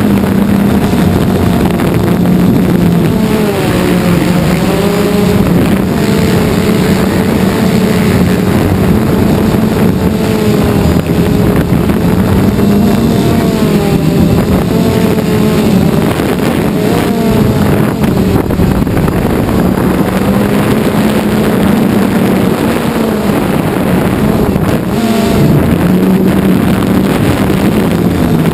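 Quadcopter drone's propellers and motors buzzing close to the microphone, a steady drone whose pitch wavers slightly up and down as the motors change speed.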